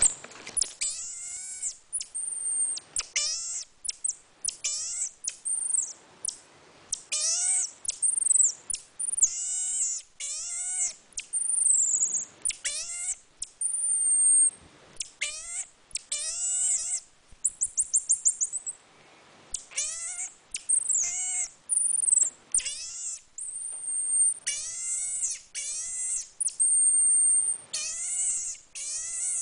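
Marmoset monkey calling over and over: a run of short, high, squeaky calls, each about half a second, mixed with longer thin high whistles. Just past halfway there is a quick rattling trill of about eight rapid clicks a second.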